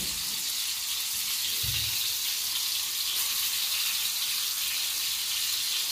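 Mutton keema kababs shallow-frying in hot oil on a tawa, just laid in: a steady sizzle.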